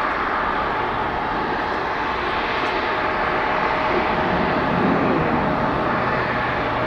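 Jet airliner engines running, a steady rush with a faint steady whine over it.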